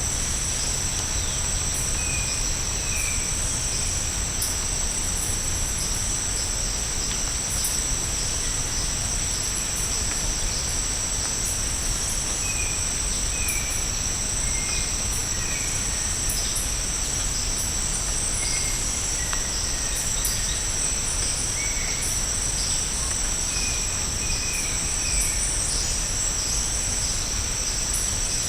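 Tropical rainforest insect chorus: a steady, high-pitched drone of crickets or similar insects, with short chirps in small runs every few seconds.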